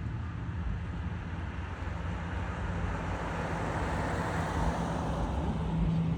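A car drives past, its engine and tyre noise swelling to a peak about four seconds in and then easing off, over a steady low engine hum.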